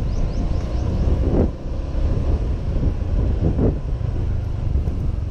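Wind buffeting a helmet-mounted camera microphone while riding a 125 cc Honda PCX scooter, with its engine and surrounding traffic under the rumble. The loudness dips briefly about a second and a half in.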